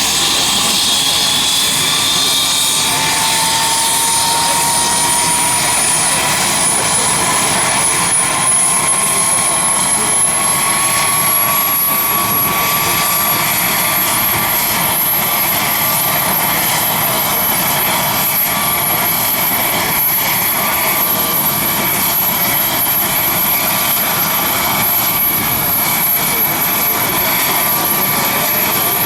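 Leonardo AW249 Fenice twin-turbine attack helicopter in flight, its rotor and engine noise loud and continuous. A high turbine whine rises in pitch over the first dozen seconds, then holds steady.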